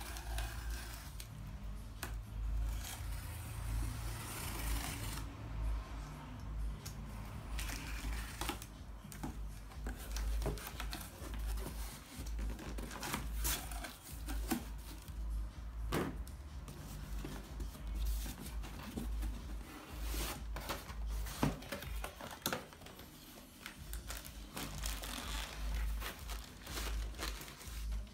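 Cardboard boxes being opened and unpacked by hand: packing material crinkling and rustling, tape tearing, with scattered clicks, knocks and handling thumps.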